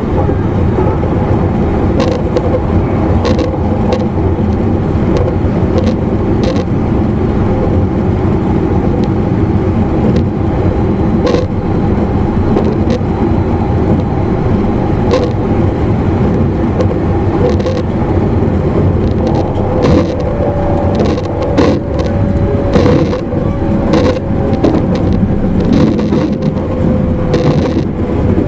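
Running noise heard inside an E259 series electric train's motor car: a steady loud rumble of wheels on rail, broken by irregular clicks and knocks. A faint tone, likely the traction motors, sits under the rumble and drifts slightly lower in the second half.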